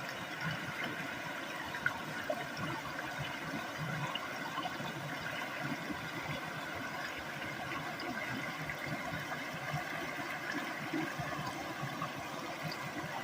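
Stream water flowing steadily, with small splashes and trickles.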